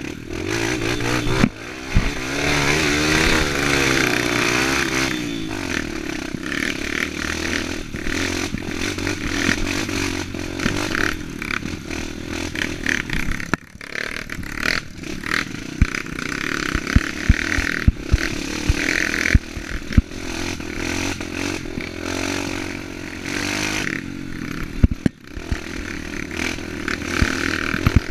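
Enduro dirt-bike engine revving up and down as the motorcycle is ridden over rough ground, with frequent sharp knocks and clatter throughout.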